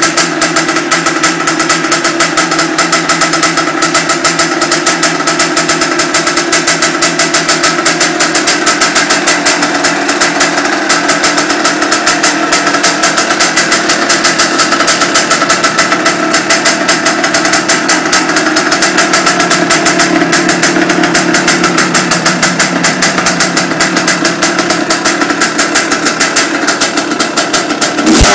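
1994 Kawasaki KX250 single-cylinder two-stroke motocross engine, freshly rebuilt and fitted with an FMF expansion-chamber pipe, idling steadily with a rapid, even crackle of firing pulses.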